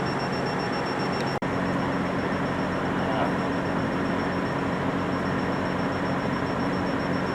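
Steady street traffic noise with a vehicle engine idling, a low steady hum, broken by a momentary dropout about a second and a half in.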